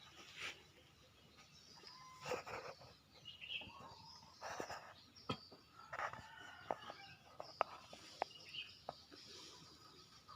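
Faint chicken calls with several sharp clicks.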